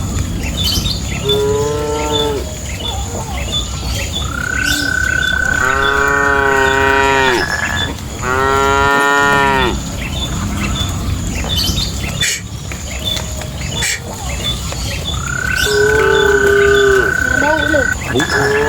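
Cattle mooing: about five long, drawn-out moos, two of them close together around the middle and another two near the end, over a steady low rumble.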